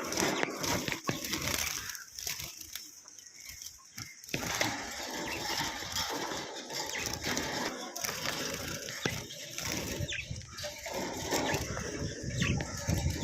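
Small birds chirping in short high calls, among scattered clicks and knocks and a low rumble.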